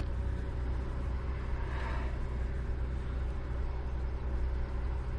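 Mercedes-Benz E320's 3.2-litre V6 idling steadily. It is running again now that a worn-out fuel pump, the cause of its crank-no-start, has been replaced.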